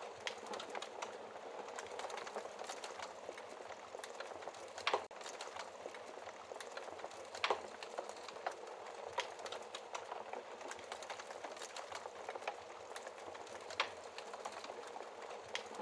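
Wood fire burning in a fireplace: a steady hiss of flames with constant small crackles, and a few louder pops, the strongest about five and seven and a half seconds in.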